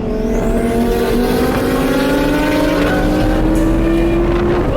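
A high-revving sports car engine accelerating in one long, steady pull, its note rising slowly until it cuts back near the end.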